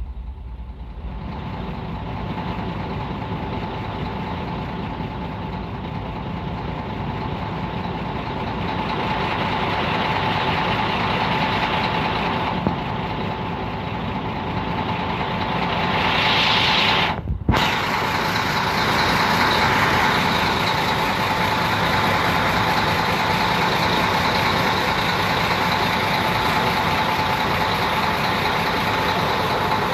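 Steady noise of a heavy vehicle's engine running, with a constant whine, getting gradually louder over the first ten seconds. There is a brief louder hiss about sixteen seconds in, and the sound cuts out for an instant just after it.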